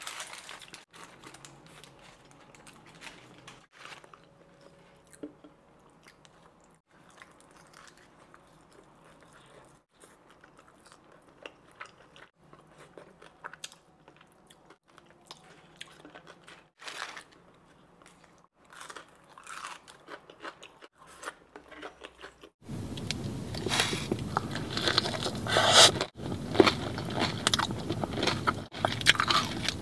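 Close-miked eating of fried chicken wings and fries: chewing with crisp bites and small wet mouth clicks. It is sparse and fairly quiet at first, then becomes much louder and almost continuous from about 23 seconds in.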